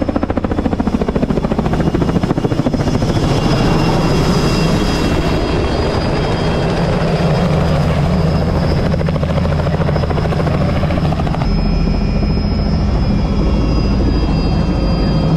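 Tour helicopter in flight, its rotor and engine running steadily with a fast, even blade beat.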